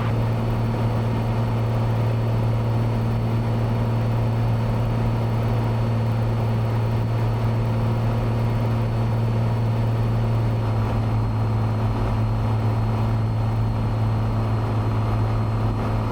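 Cessna 182's six-cylinder piston engine and propeller droning steadily in cruise, heard inside the cockpit.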